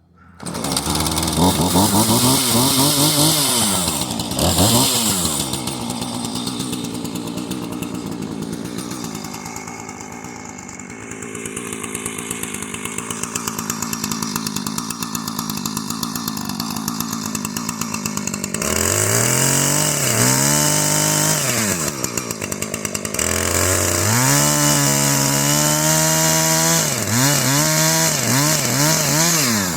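Husqvarna chainsaw cutting logs into firewood lengths. It starts abruptly and revs up and down a few times. It runs fairly steadily through the middle while cutting, then revs up and down repeatedly over the last ten seconds.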